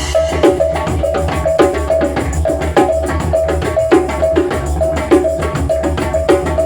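Live didgeridoo funk: a didgeridoo holding a steady low drone with a rhythmic pulsing pattern, over drums and percussion.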